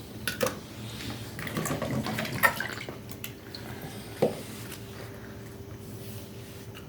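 Water dripping and splashing, with a few sharp clicks or knocks in between.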